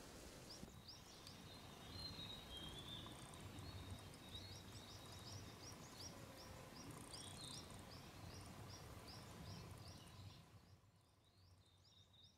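Faint birdsong: a bird chirping over and over in short, high notes, about two a second, with a few softer whistles beneath.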